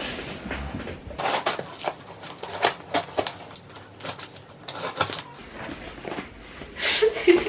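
Cardboard parcel being cut and opened with scissors: a run of short scrapes, rustles and light knocks from the box and its tape.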